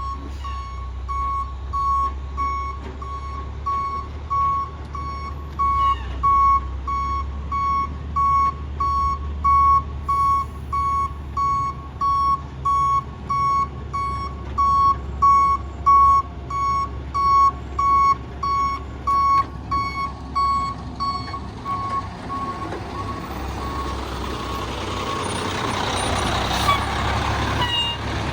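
Rear-loader garbage truck's backup alarm beeping steadily, a little more than one beep a second, over the low running of its diesel engine. About three-quarters of the way through the beeping stops and a rising hiss of air follows, with a sharp pop near the end.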